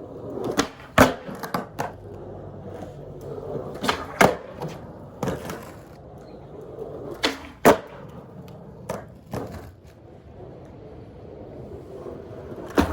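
Skateboard rolling on a hard surface, a steady wheel rumble broken by sharp clacks every second or so. The trucks run without squeaking, their pivot cups packed with candle wax.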